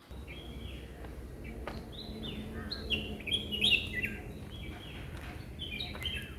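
Birds chirping: many short calls, each sliding down in pitch, thickest around the middle, over a steady low hum.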